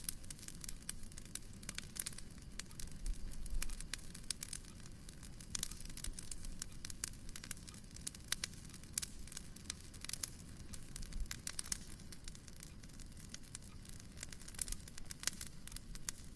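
Wood fire crackling in a fireplace: many irregular pops and snaps over a low, steady rumble of the flames.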